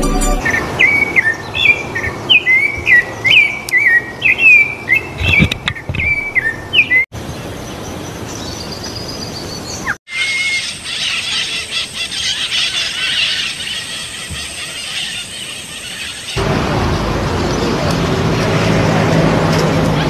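Spliced bird recordings: a songbird repeats sharp, rising chirps about twice a second. After a sudden cut comes a noisy stretch with a brief call, and then a steady outdoor hiss.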